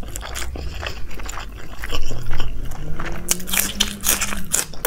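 Close-miked chewing of a mouthful of biryani rice, with many wet mouth clicks and smacks. About two seconds in, a long hummed "mmm" of enjoyment rises slowly in pitch and fades near the end.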